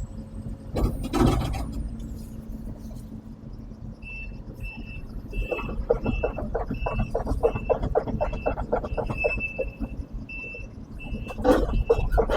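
Case CX220 excavator on the move, its travel alarm beeping about twice a second. Rapid clanking comes in from a little after the beeping starts and is most likely its steel tracks, over a steady engine rumble. A short loud noise comes about a second in.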